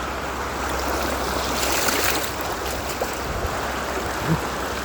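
Flowing river water rushing steadily around a tube in a choppy stretch of the Farmington River, with a brighter splash about two seconds in.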